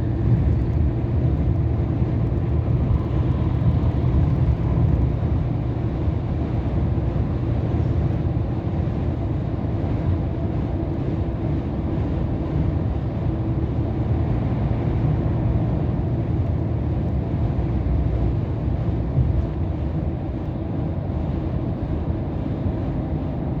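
Steady drone of a Scania R500 truck's V8 diesel engine and road noise, heard inside the cab while cruising at highway speed.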